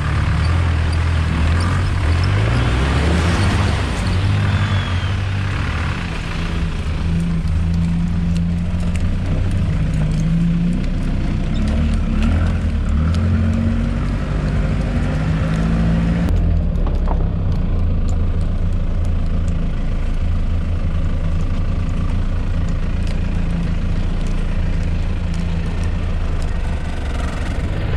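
A 4x4's engine running as it is driven off-road, its pitch rising and falling with the throttle. Scattered knocks and rattles are mixed in.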